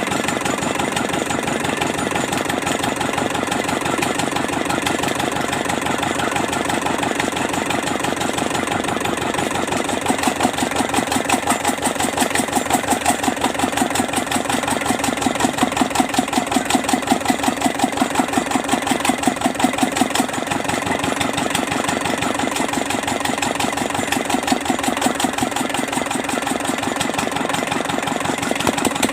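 Kubota Z751 two-cylinder diesel engine running at a steady idle, with a fast, even firing beat. The beat grows louder and less even for about ten seconds in the middle.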